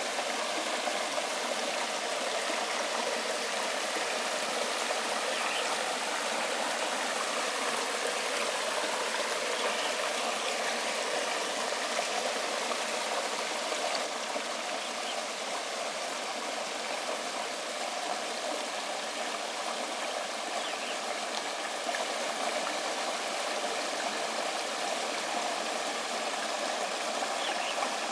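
Waterfall pouring into a stream: a steady rushing and splashing of water, hissy rather than deep, with little low rumble.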